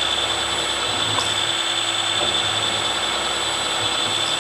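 Milling machine running with a steady whine, its 6 mm end mill plunge-cutting a deep slot.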